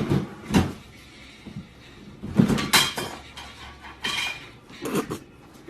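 A series of short knocks and clatters, about six in all, spread a second or so apart, like household objects being bumped or handled.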